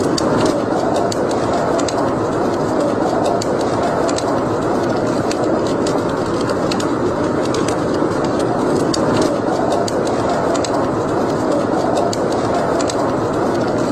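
Wood fire burning in a fireplace: a steady rush of flames with frequent small, irregular crackles and pops.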